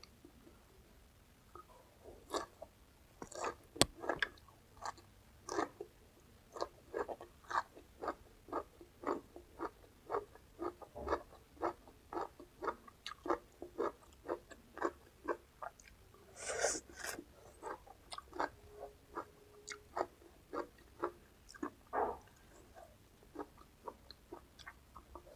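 Close-up chewing of crisp raw vegetables, with wet, crunchy chews at an even pace of about two a second. A longer, louder crunch comes about two-thirds of the way through.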